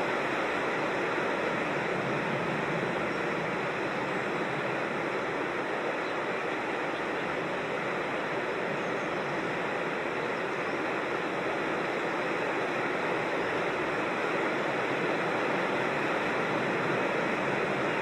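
Steady rush of flowing creek water tumbling over small falls, an even hiss that holds the same level throughout.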